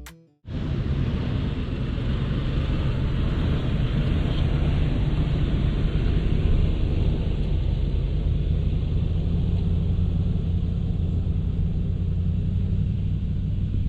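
2013 Lexus GX460's 4.6-litre V8 with a Magnaflow exhaust, heard from inside the cabin: a steady low exhaust drone with road noise, starting about half a second in.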